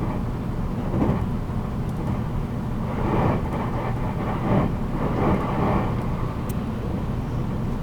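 JR 783 series electric multiple unit running at speed, heard inside motor car MoHa 783-13: a steady rumble of wheels on rail and motor noise, with a few swells in loudness.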